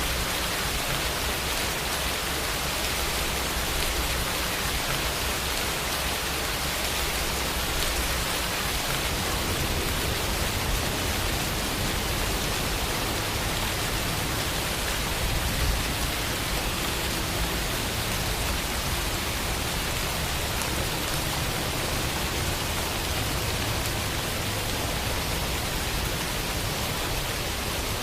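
Steady rain falling, an even hiss of many drops with no other sounds.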